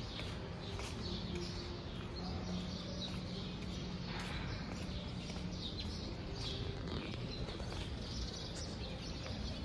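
Birds chirping with many short, high calls scattered throughout, over a steady low outdoor background with a faint hum.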